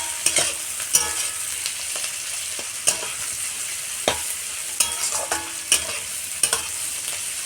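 Onions with ginger-garlic paste and cumin powder sizzling in hot mustard oil in a kadai, with a steady hiss. A spatula knocks and scrapes against the pan at irregular moments as the mixture is stirred.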